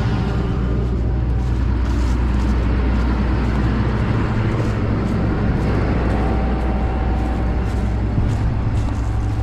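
A vehicle engine running steadily with a deep, even drone and no change in speed.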